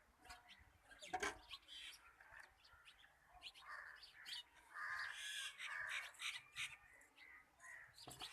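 Birds calling in short, scattered calls.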